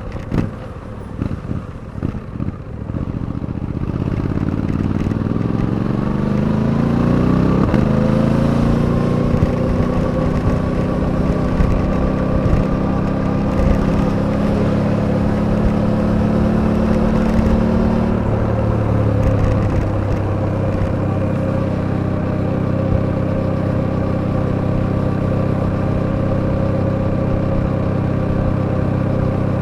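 Suzuki V-Strom 800DE's 776 cc parallel-twin engine on the road. It runs unevenly at low revs for the first few seconds, then its pitch climbs steadily as the bike accelerates. It holds an even cruise, drops in pitch about two-thirds of the way through, and settles into a steady lower note.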